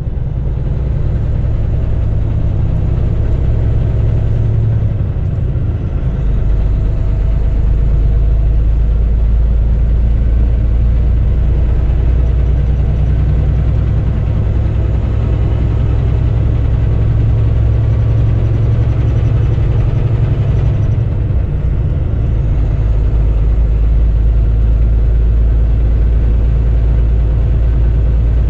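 Semi-truck engine and road noise heard from inside the cab while driving on the highway: a steady low rumble.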